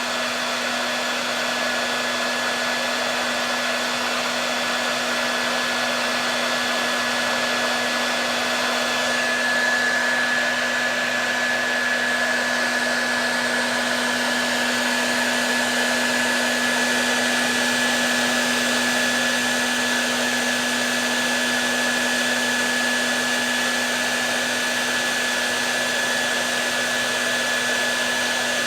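Hair dryer running steadily: an even rush of air with a constant low hum and a thin high whine, the whine growing a little stronger about a third of the way through.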